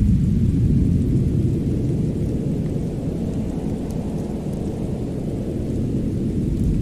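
Deep, steady low rumble of a winter snowstorm-and-fireplace ambience track, easing a little toward the middle and rising again near the end, with no distinct crackles standing out.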